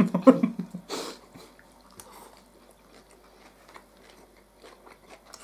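People eating at a table: a short crunchy bite about a second in, then soft chewing with light fork clicks against plates.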